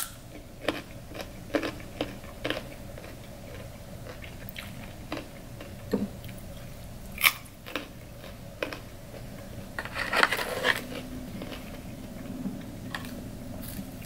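Raw carrot stick bitten off with a sharp snap, then chewed with irregular crisp crunches; a louder spell of crunching about ten seconds in.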